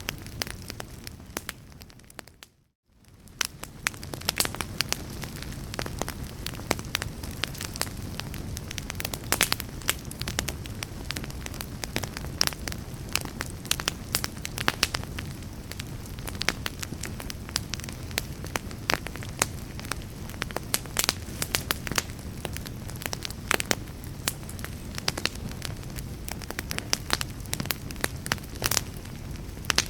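Wood fire in a fireplace crackling and popping, with sharp irregular snaps over a low steady rumble of the flames. About two seconds in, the sound fades out to near silence and fades back in a second later.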